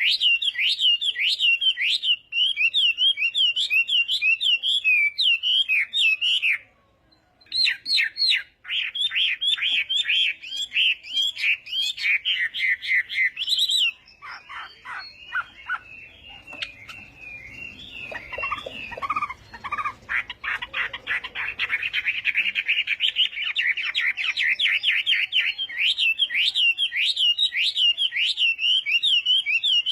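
Chinese hwamei singing: long runs of fast, repeated whistled notes, with a brief pause about seven seconds in and a lower, more varied phrase near the middle.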